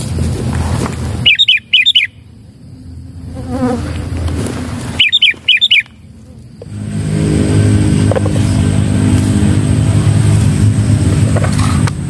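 Two quick bursts of three or four sharp, loud bird chirps a few seconds apart, followed by a steady low buzzing hum from about two-thirds of the way in.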